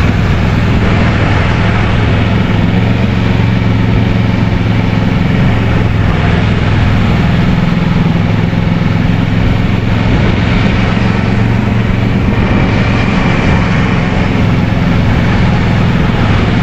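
Kawasaki Versys 650's parallel-twin engine running at steady revs while riding, with a constant rush of wind noise over it.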